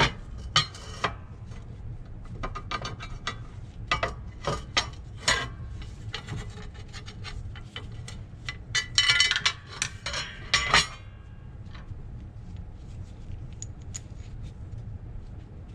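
Steel brake parts from a Rolls-Royce Phantom III front brake backing plate assembly clinking and scraping against each other as they are worked apart by hand, a string of sharp metallic clicks and rubs that stops about eleven seconds in. A steady low hum runs underneath.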